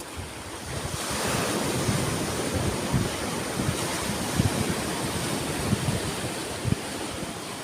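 Sea surf: waves breaking and washing in as a continuous rush that swells about a second in, with wind buffeting the microphone in low irregular thuds.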